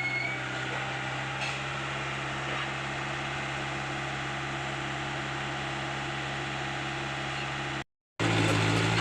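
Komatsu PC75UU excavator's diesel engine running at a steady speed, a constant drone with no revving or knocks.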